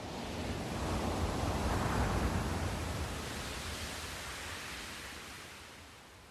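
Sea surf: a single wave breaking and washing in as a swell of noise. It builds to a peak about two seconds in, then fades away.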